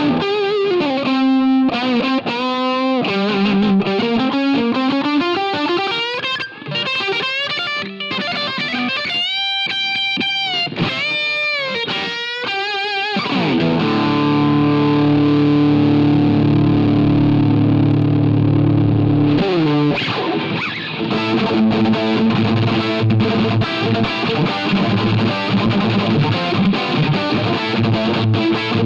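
Distorted electric guitar playing single-note lead lines with string bends and vibrato. About halfway through it slides down into a long, held chord, then moves on to rhythmic chords.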